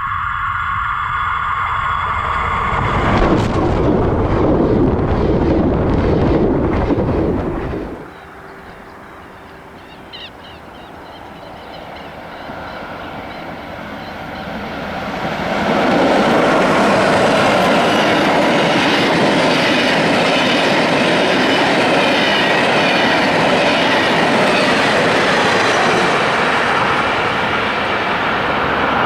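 A train running past on the rails, with rumble and wheel-on-rail noise; the sound cuts off suddenly about eight seconds in, stays quieter for several seconds, then a train's running noise rises again and holds loud from about fifteen seconds in.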